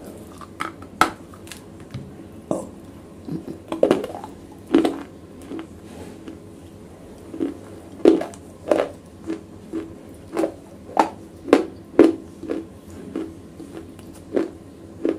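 Wet black slate being bitten and chewed right at a lapel microphone. A few sharp bites and snaps come in the first five seconds, then short crunches from the chewing follow at about two a second.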